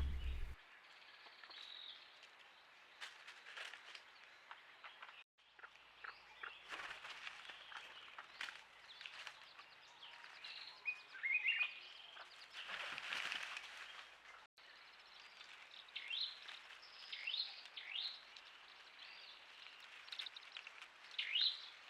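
Wild birds calling in short, scattered high chirps and quick downward-sliding notes, with a brief rustling noise near the middle. The sound is faint throughout and drops out twice for an instant.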